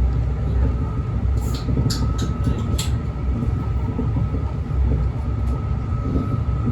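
Brightline passenger train running: a steady low rumble with a thin, steady whine above it, and a quick run of clicks or rattles about one and a half to three seconds in.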